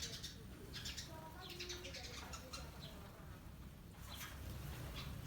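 Wild munias chirping, with short high calls coming in scattered clusters as the flock feeds on rice.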